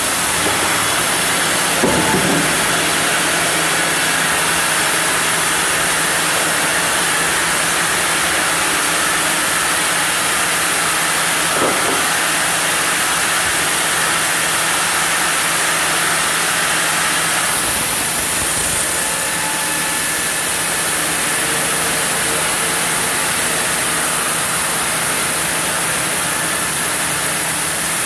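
Sawmill saw cutting through a block of zelkova: a loud, steady noise with a low hum underneath, turning a little brighter and hissier a bit past halfway.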